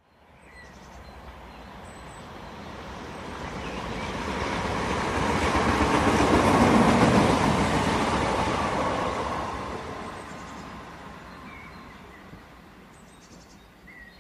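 Train running noise, an even rumble and hiss that swells to a peak about halfway through and then dies away again.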